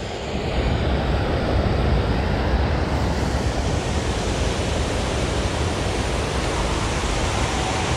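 Steady rush of river water, an even noise heaviest in the low end.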